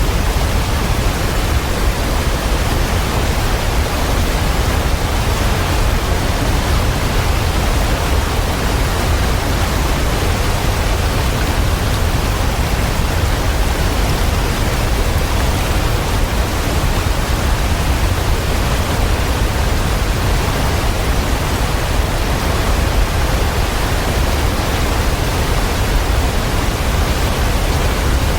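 Waterfall: a steady, even rush of falling water, heaviest in a deep low rumble.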